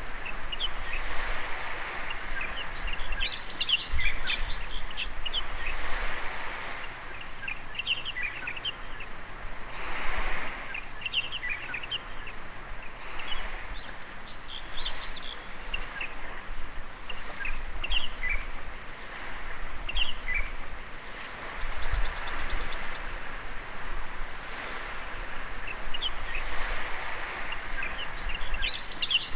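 Small sea waves washing onto a sandy beach, swelling and fading every few seconds, with many short bird chirps and calls over them and a quick trill about two thirds of the way in.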